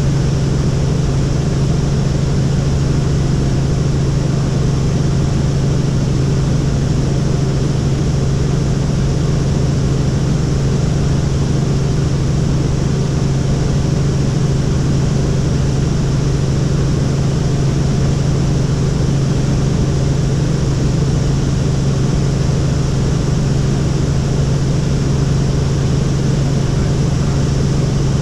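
Helicopter in flight, a steady loud low drone of rotor and engine that does not change.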